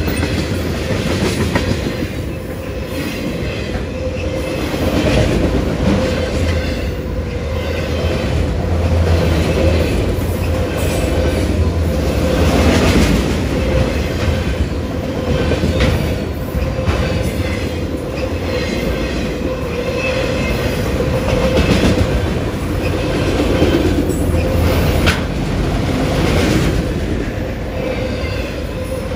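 Freight cars of a long CSX manifest train rolling past: steady rumble of steel wheels on rail, with repeated clicks as wheelsets cross rail joints and a steady ringing tone over the rumble.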